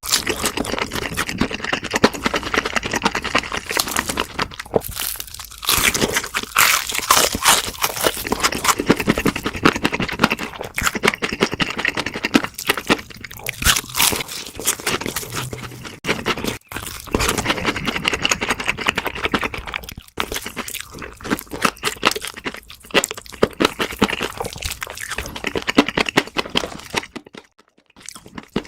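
Close-miked eating of crunchy food: crisp bites and chewing with a dense crackle, easing off briefly a few times.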